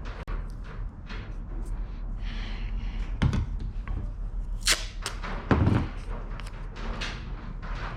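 Wind buffeting the microphone with a steady low rumble. There are two heavy low thumps, about three and five and a half seconds in, and scattered sharp clicks and knocks, the sharpest just before the second thump.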